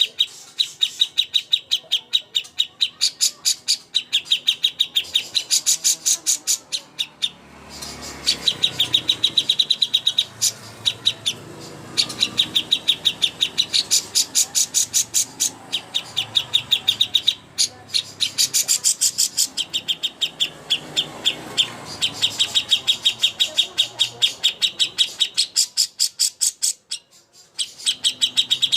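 Small songbird giving long, rapid chattering trills: runs of several seconds of fast, evenly repeated high chips, broken by brief pauses. This is the kind of long chatter (nyerecet panjang) used as a masteran song model for training competition birds.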